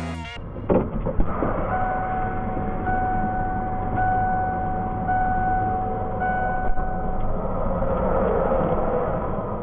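Road traffic running past, with an electronic tone beeping about once a second for several seconds in the middle, and a few knocks about a second in.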